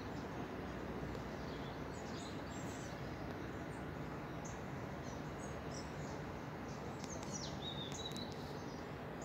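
Small birds chirping in scattered short calls, with a falling whistle and a brief trill about three-quarters of the way through, over a steady outdoor background hiss.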